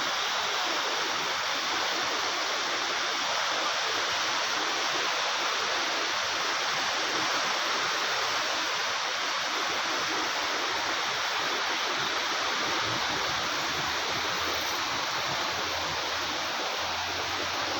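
Swat River rushing steadily over rocks, a constant loud roar of turbulent water.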